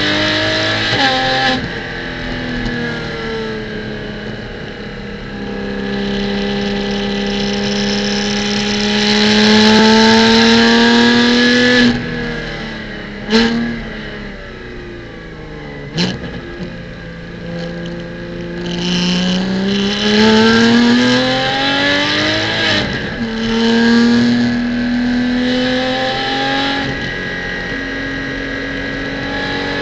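Porsche Cayman GT4 Clubsport's flat-six engine heard from inside the car on track, pulling up through the revs and dropping back several times as it accelerates and slows. There are two sharp cracks about halfway through.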